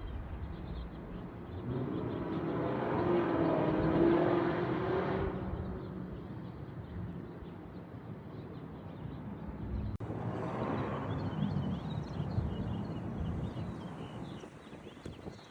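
Outdoor vehicle noise: a rumbling hiss that swells for a few seconds as something passes, then swells again after a short break.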